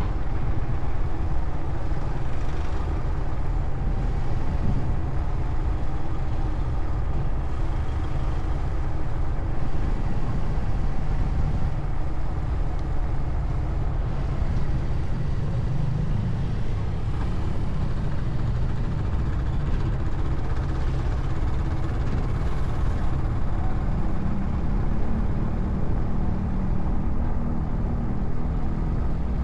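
Motorcycle on the move: its engine runs steadily under a heavy rush of wind and road noise on the microphone. A steadier engine note comes in near the end.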